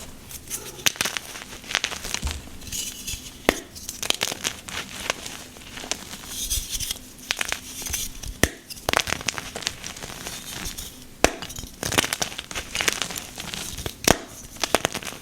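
Pink gym chalk chunks being crushed and crumbled, a run of irregular crunches and sharp crackles.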